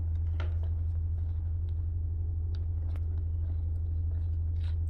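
A steady low hum with a few faint, brief clicks over it.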